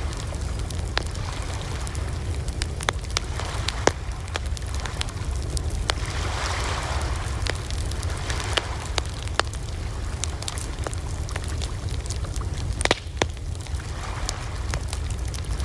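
Wood campfire crackling, with irregular sharp pops over a steady low rumble of burning. A soft hiss swells up about halfway through, and a few louder pops come close together near the end.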